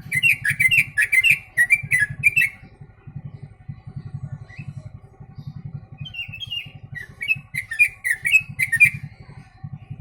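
Yellow-vented bulbul (trucuk) singing two bouts of quick, chirpy bulbul phrases, trained to the song of the sooty-headed bulbul (kutilang), the second bout starting about six seconds in. A low pulsing rumble runs underneath.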